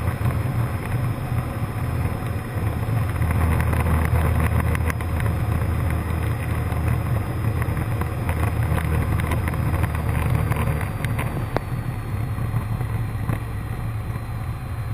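Cessna 152's four-cylinder piston engine and propeller droning steadily, heard from inside the cabin during pattern flight.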